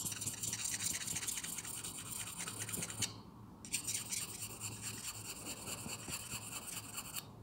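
A V-shaped (triangle) wood carving gouge rubbed in quick, light strokes along the angled edge of a sharpening stone, honing off the burr left by the grinding wheel. The scratchy strokes come in two runs, broken by a short pause about three seconds in.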